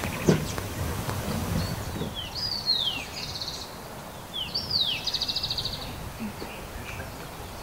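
A songbird singing two phrases, each a few whistles sliding down in pitch followed by a fast trill, over quiet outdoor background noise. A short thump comes just after the start.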